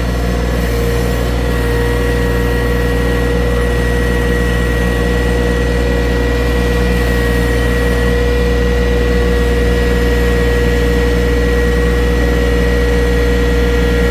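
Small farm tractor's engine running steadily at a constant speed, with a steady high whine over the engine note.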